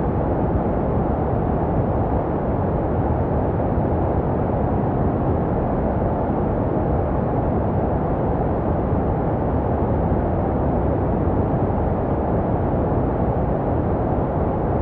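Steady, unbroken baby-sleep white noise, weighted toward the low end with little hiss on top, made to resemble the sound a baby hears in the womb.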